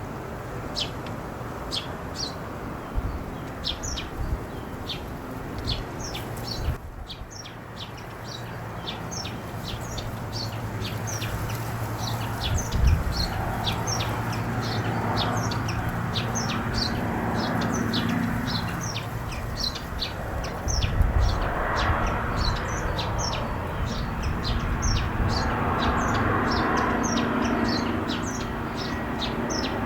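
Birds chirping in quick, short, high notes throughout, over ocean surf that swells and ebbs.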